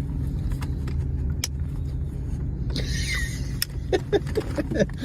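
Steady low motor hum, like a vehicle's engine, with scattered light clicks and a few brief high squeaks in the last second or so.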